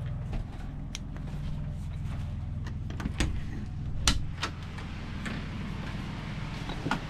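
A steady low mechanical hum, with a few sharp clicks and knocks, the loudest about four seconds in.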